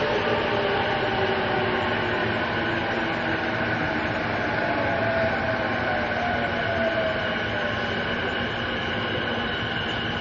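Interior running noise of a JR East E233 series 2000 subseries electric train in the Chiyoda Line tunnel: a steady rumble of wheels on rail with a few pitched tones that drift slowly up and down.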